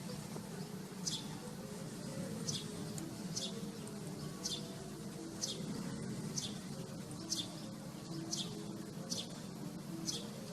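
A bird chirping over and over, short high notes that fall in pitch, about one a second, over a low steady hum.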